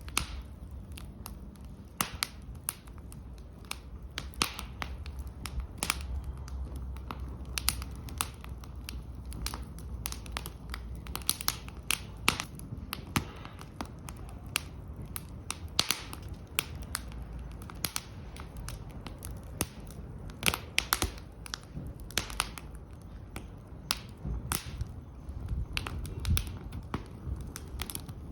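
Wood fire in a fire pit crackling, with many irregular sharp snaps and pops over a low steady rumble.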